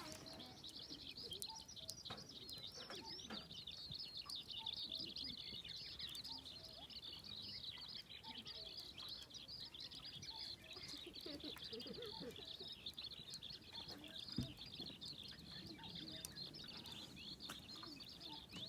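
Birdsong: a continuous stream of rapid, high chirping notes, with a single sharp knock about two-thirds of the way through.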